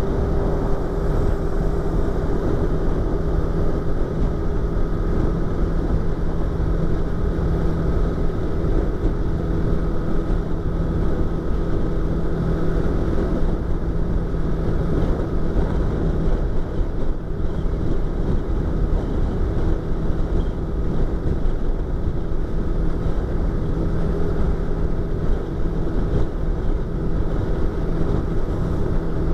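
Yamaha YZF-R25's parallel-twin engine and exhaust running at a steady, nearly constant speed while cruising, heard from inside the rider's helmet with wind noise over it.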